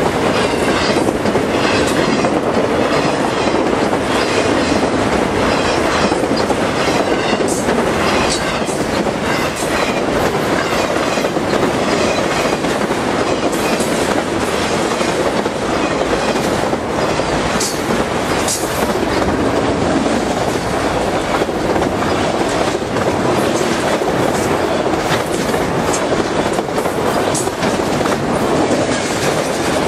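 Freight train of autorack cars rolling past at close range: a steady, loud rumble of steel wheels on the rails with rapid clicking from the wheels.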